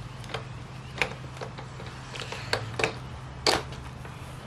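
Scattered light clicks and knocks of bolts and parts being handled while fitting the sprocket to a garage door opener's motor, about six sharp clicks with the loudest near the end, over a steady low hum.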